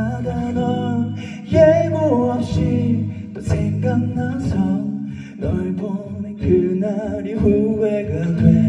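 Male vocalist singing a ballad live over a pre-recorded instrumental backing track, the voice rising and falling over sustained low accompaniment.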